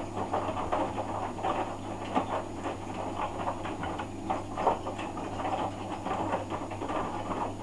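Hoover DYN11146PGBCH front-loading washing machine on its rinse cycle, the drum turning and tumbling wet laundry so that the water sloshes and splashes in irregular bursts over a steady low hum.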